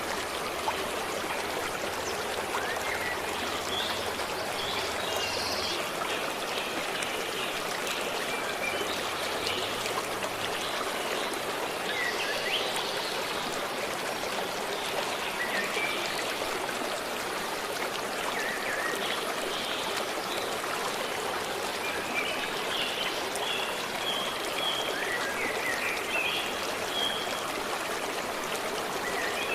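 Forest stream running steadily, with birds chirping briefly now and then above the water.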